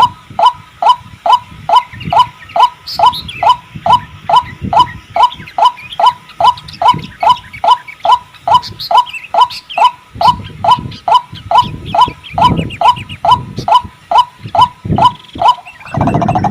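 White-breasted waterhen (ruak-ruak) calling as a lure call: a loud, monotonous note repeated about two and a half times a second, each note dropping in pitch, with fainter higher chirps behind it. Just before the end a denser, lower layer of sound joins in.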